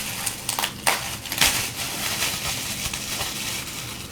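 Packaging being handled: irregular crinkling and rustling, with a couple of sharp clicks about one and one and a half seconds in.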